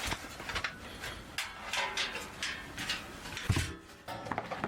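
Clicks, knocks and scrapes of a camping wood stove being handled and set up, with a heavier thump about three and a half seconds in.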